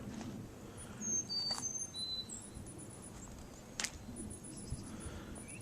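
Small birds chirping: short high-pitched chirps and thin whistled notes scattered through, over a low steady background hiss, with one sharp click nearly four seconds in.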